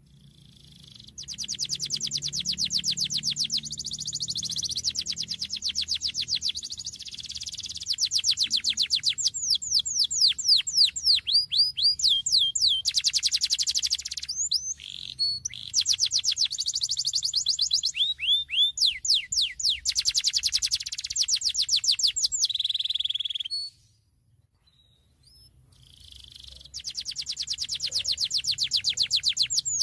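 Domestic canary singing a long, vigorous song of rapid trills and rolling runs of fast down-sweeping notes. There is a short break about three-quarters of the way through before the song starts again.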